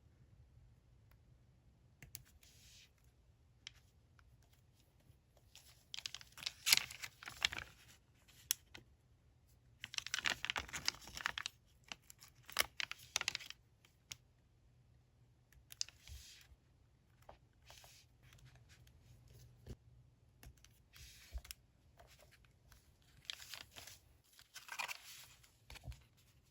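Paper being handled in short bursts of rustling, crinkling and tearing, with quiet gaps between.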